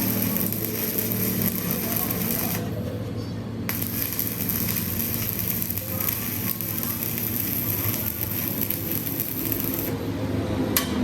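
Workshop machine, probably a metal lathe, running with a steady hum under a light metallic rattle, with two sharp clicks.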